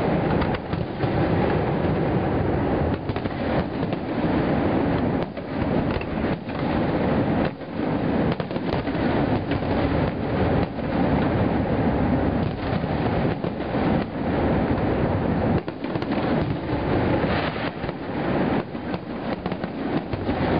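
Aerial fireworks display: shell bursts following each other in quick succession, the bangs running together into a continuous rumble.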